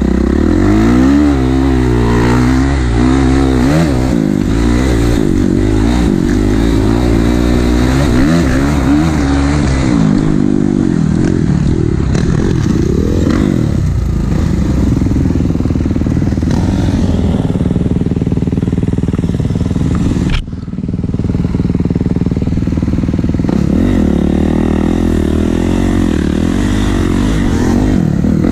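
Kawasaki KX450 dirt bike's four-stroke single-cylinder engine running hard on a trail ride, its pitch rising and falling with the throttle and gear changes, with one sudden brief drop about twenty seconds in.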